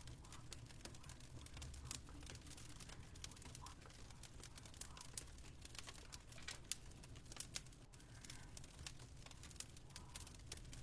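Faint fireplace crackling: irregular sharp snaps and pops from burning wood over a low steady rumble.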